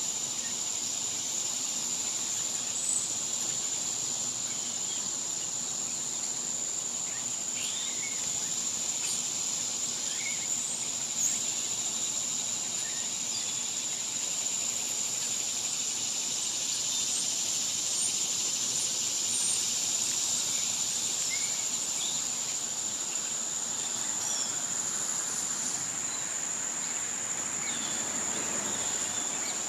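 Steady, unbroken high-pitched drone of summer insects, with a few short bird chirps scattered over it.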